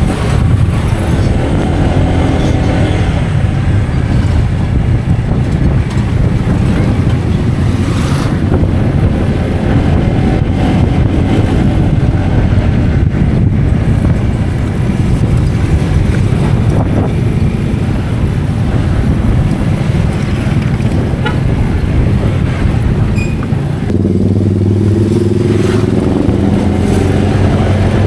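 A motor vehicle's engine running on the road under a loud, steady low rumble. A clearer engine note stands out for a couple of seconds near the start and again for the last few seconds.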